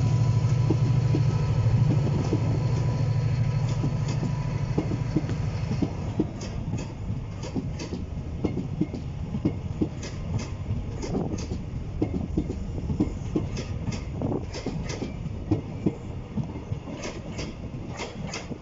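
Diesel-hauled passenger train pulling away. The low drone of the Class 68 diesel-electric locomotive working hard fades over the first few seconds, leaving the coaches' wheels clicking over rail joints and pointwork in an uneven clatter as the train moves off.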